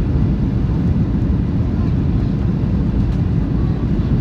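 Steady low rumble of a Boeing 737-800's CFM56 engines and rushing air, heard inside the cabin on final approach with landing gear and flaps extended.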